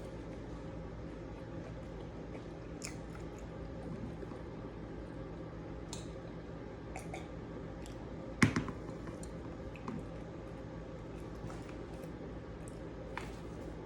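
Close-up eating sounds: soft chewing with scattered small clicks, and one sharper knock about eight and a half seconds in, over a steady background hum.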